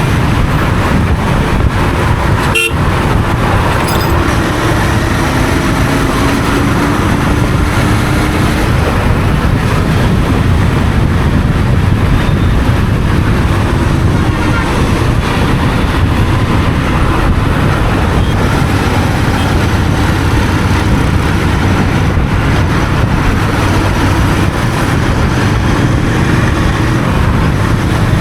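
Royal Enfield Continental GT 650's parallel-twin engine running through its stock exhaust at a steady cruising throttle, with road and wind noise from the ride.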